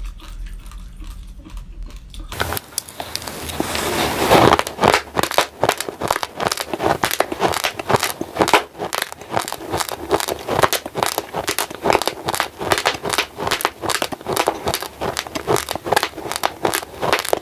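Raw glutinous rice grains being crunched between the teeth close to the microphone. After about two quiet seconds comes a burst of crackling that swells, then a steady run of sharp crunches, about four or five a second.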